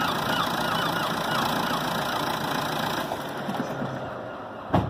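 Car engine running with the air conditioning on, then switched off about three seconds in, the running noise dying away. A single sharp thump near the end.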